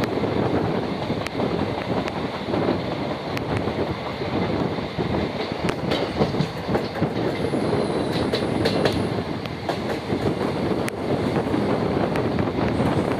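Passenger express train running along the track, heard from an open coach doorway: a steady rumble and rattle of the coaches with irregular clicks of wheels over rail joints. A faint, brief, high wheel squeal comes around the middle.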